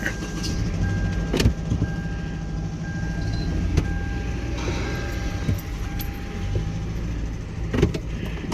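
An engine runs steadily with a thin constant whine above it, while sharp metallic clanks ring out three times from the chain and axle as the heavy rear end is lifted.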